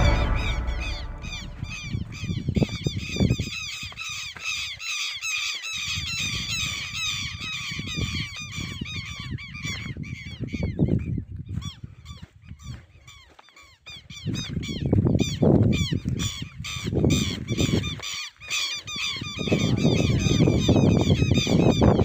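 A chorus of birds calling together, with many short chirps repeated rapidly and overlapping. A lower rumbling sound swells up several times beneath them.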